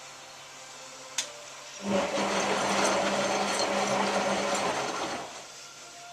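Hotpoint 9534A washing machine's drum motor running the drum for a tumble of about three and a half seconds during the wash's heating stage, a steady motor hum with the wash churning, preceded by a single click about a second in.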